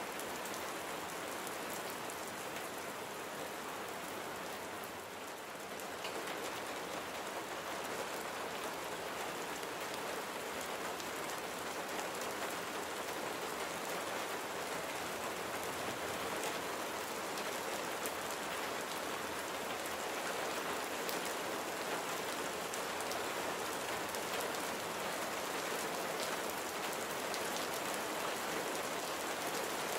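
Steady rain falling on a surface: an even hiss with the fine patter of individual drops, easing slightly about five seconds in and then picking up again.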